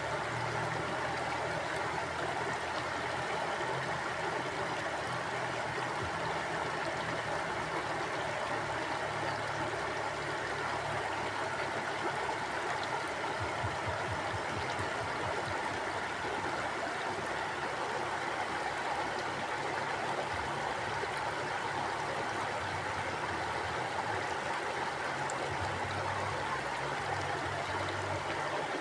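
Mountain river flowing steadily over rocks, an even rushing and gurgling of water.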